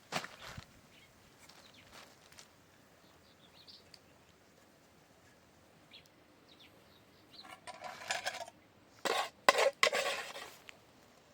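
Metal cookware and utensils knocking and clattering, with a few faint bird chirps in a quiet stretch; the loudest clattering comes in several bursts near the end.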